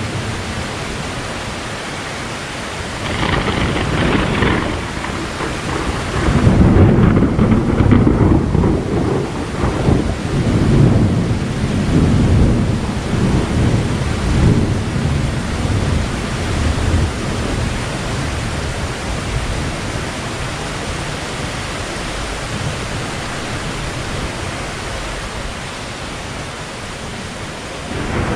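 Thunder over steady rain. A sharper crack comes about three seconds in, then a long low rumble from about six seconds that fades away by the middle, leaving only the steady hiss of rain.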